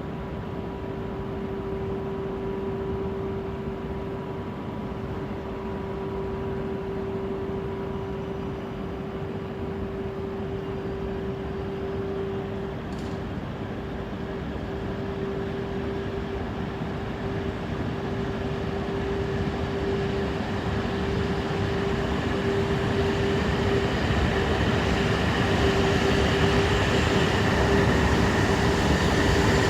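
Tohoku Shinkansen Yamabiko train at the station platform: a steady electric hum, with the running noise growing louder over the last ten seconds or so as the train starts to pull away.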